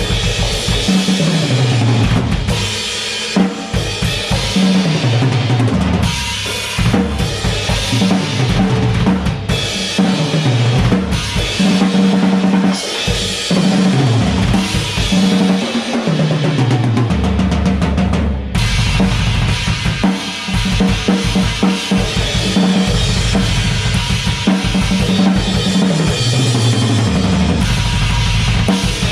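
Drum kit played hard and fast, with heavy bass drum and snare and rolls, over a recorded track that carries a sliding low bass line. About eighteen seconds in the playing thins for a moment, then comes back fuller.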